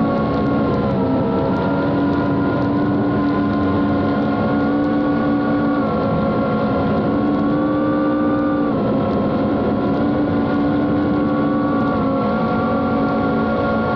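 Reptile Cloud HD FPV drone's four motors and Gemfan D76 propellers running in flight with a steady whine. The pitch steps down about a second in and again near 9 s, then rises, as the throttle changes.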